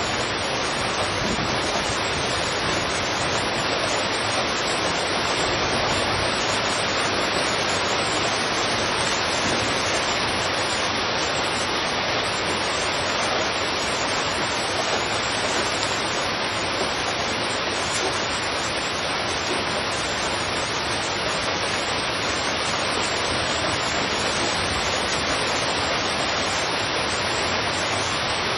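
Heavy rain falling steadily on a street, an even, unbroken hiss with no separate drops or breaks.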